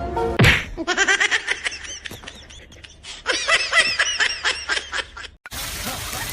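A person laughing in two runs of rapid, high-pitched giggles. About five seconds in, it cuts to a steady hiss.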